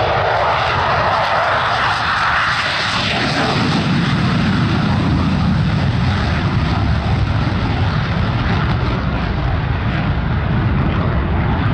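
Loud aircraft engine noise of a plane flying past, the sound shifting from a higher roar to a lower rumble about three seconds in as it goes by.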